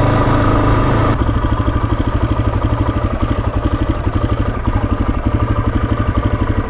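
Single-cylinder four-stroke engine of a Suzuki DR-Z motorcycle. It runs steadily, then about a second in drops to a lumpy, evenly pulsing idle of roughly eight beats a second. The bike is being run with the choke half out because it will not idle otherwise.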